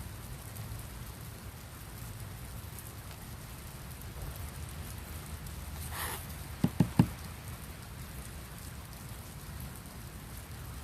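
Steady rain falling, with a brief rustle and then three quick knocks a little past the middle.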